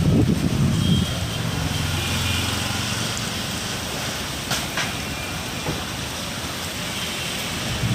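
Rain falling with a steady hiss, with a low rumble in the first second or so that fades away.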